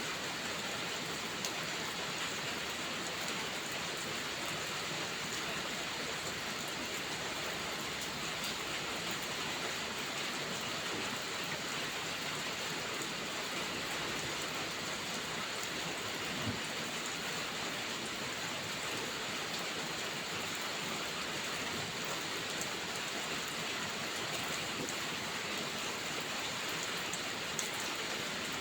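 Steady rain falling, with a few faint scattered ticks of drops.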